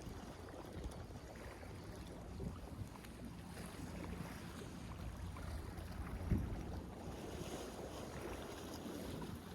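Strong wind buffeting the microphone, a steady low rumble that rises and falls, with a single brief knock about six seconds in.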